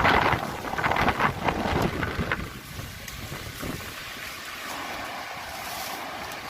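Strong wind gusting through coffee trees and buffeting the microphone. The loud gusts ease about two and a half seconds in to a steadier, quieter rush.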